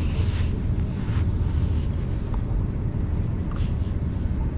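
Steady low rumble of road and engine noise inside a moving van's cabin, with a few faint clicks.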